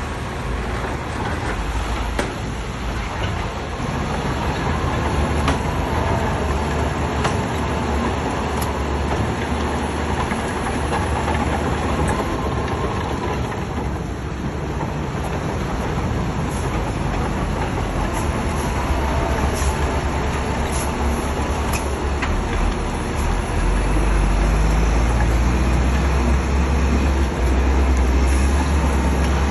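Shantui crawler bulldozer at work: its diesel engine running under load, with the clatter of steel tracks and scattered sharp knocks. It gets louder near the end.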